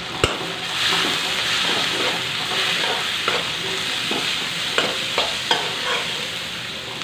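Sliced onions, green chillies and spices sizzling in hot oil in a wok while a spoon stirs and scrapes them. The sizzle gets louder about a second in, once the stirring starts. There is a sharp clack just after the start and a few light knocks of the spoon against the pan.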